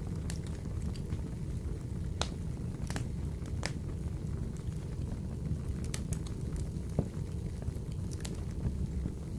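Wood fire burning in a wood-burning stove: a steady low rumble with scattered sharp crackles and pops, the loudest about seven seconds in.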